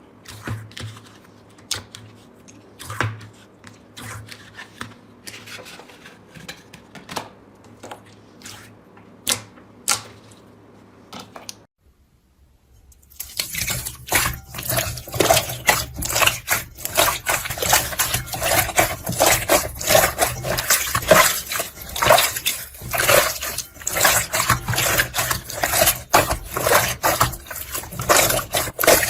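Slime being squeezed and pressed by hand, making sticky clicks and small pops, sparse at first. After a short break about twelve seconds in, a louder, dense run of crackling clicks and squelches follows.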